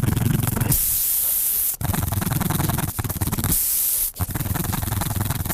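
Spiral reamer of a tyre plug kit rasping in and out of a puncture hole in a pressurised car tyre, in long gritty strokes. Between strokes, air hisses out through the enlarged hole.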